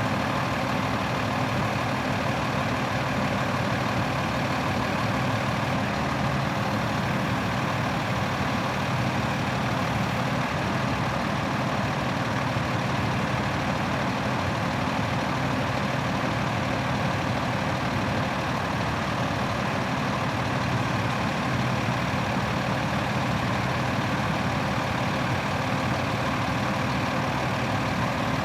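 2012 Freightliner M2-106 bucket truck's engine idling steadily, with no change in speed.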